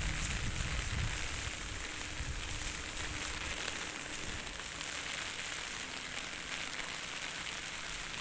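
Rain falling steadily: an even hiss with fine patter.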